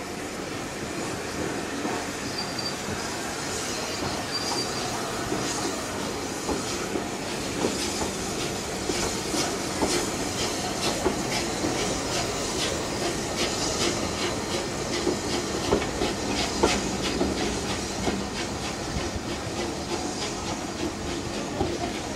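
Steam-hauled train of passenger coaches pulling out of the station, its wheels clicking over the rail joints over a steady rolling rumble. A brief high wheel squeal comes a few seconds in, and the clicks come thicker from about eight seconds in as the coaches pass.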